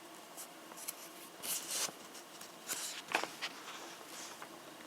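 Paper pages of a magazine rustling as they are handled and turned: a few short, soft swishes and crinkles, the clearest about a second and a half in and again around three seconds.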